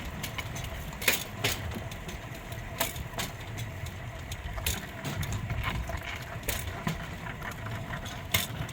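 Pedal-powered rail bike's steel wheels rolling along an old railway track: a steady rumble with sharp clacks every second or two.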